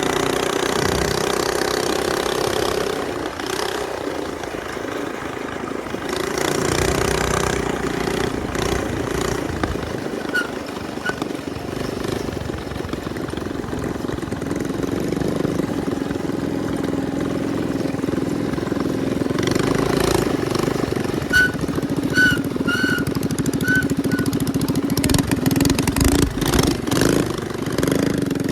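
Minibike engine running as it is ridden, its pitch and loudness rising and falling with the throttle. Several short high chirps come through near the end.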